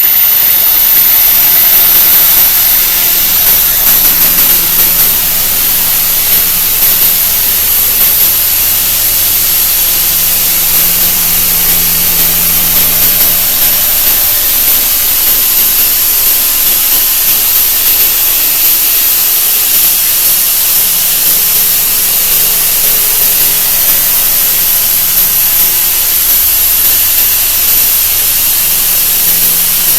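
A 'wah wah' sound effect played at an enormous speed-up, smeared into a loud, steady rushing noise with a thin high whine on top.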